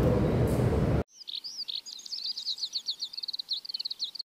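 About a second of steady background noise cuts off abruptly, then a bird sings a run of high chirps and short gliding notes that quicken into a rapid trill near the end.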